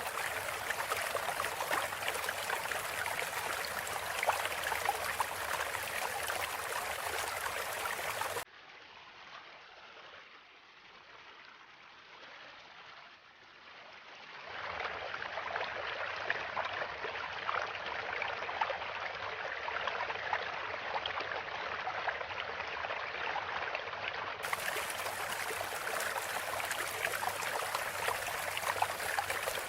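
Running water, like a trickling stream, flowing steadily. It falls much quieter about eight seconds in and swells back about six seconds later.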